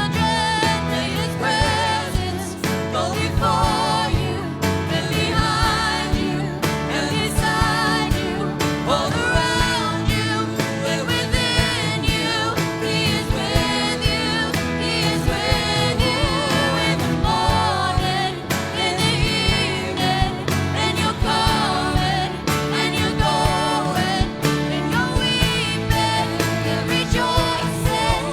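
A worship band playing and singing a Christian worship song, with voices over instruments and a steady beat.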